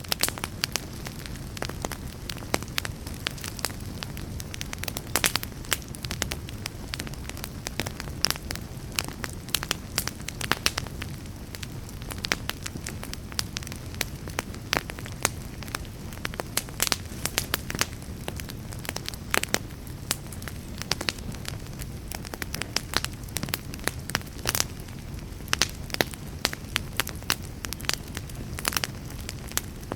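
Wood fire crackling in a fireplace: a steady low rush of burning with frequent sharp pops and snaps scattered irregularly throughout.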